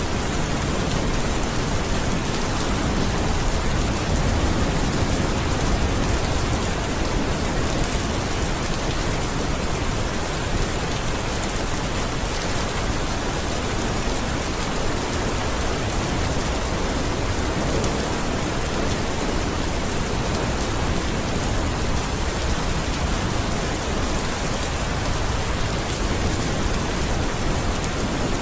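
Steady rain falling, an even wash of hiss with no breaks.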